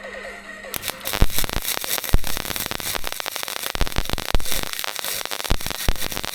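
Gasless flux-core MIG welding arc crackling and spitting on a stainless exhaust pipe. It strikes up just under a second in and carries on with irregular sharp pops.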